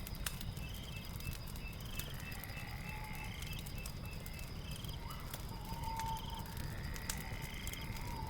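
Night ambience of short trilled animal calls repeating about twice a second, with a few longer, lower calls, over the scattered pops and crackles of a log fire and a steady low rumble.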